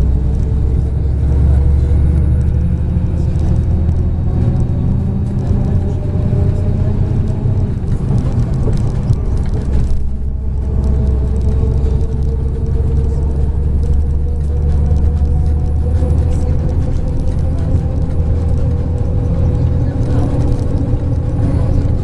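MAZ 103 bus heard from inside the cabin while under way: a deep engine and road rumble with a whine that climbs slowly as the bus gathers speed, dropping away briefly about ten seconds in before rising again.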